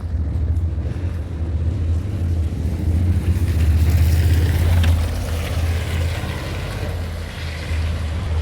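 Wind buffeting the microphone outdoors in the rain: a loud, steady low rumble with a hiss of rain and street noise over it.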